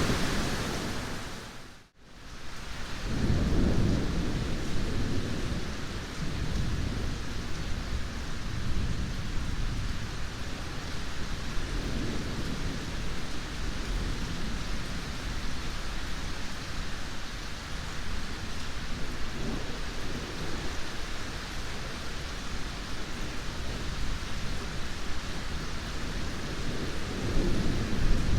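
Steady heavy rain with low rolling thunder that swells several times, loudest a few seconds in and again near the end. About two seconds in, the sound dips almost to silence for under a second, then comes back.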